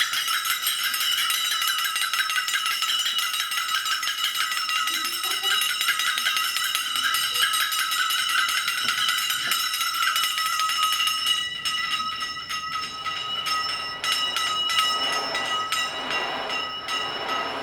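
Many small jingle bells shaken continuously together, a dense bright jingling. About twelve seconds in it thins into separate jingles, and a lower rattling sound joins near the end.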